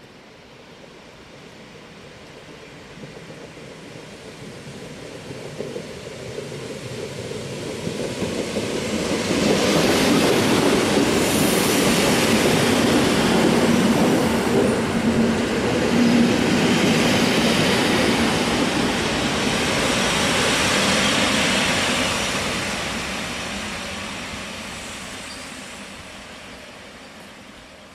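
EN57 electric multiple unit approaching and running past close by on the platform track. Its wheel and running noise builds steadily, is loudest for about ten seconds in the middle, then fades as the train moves away.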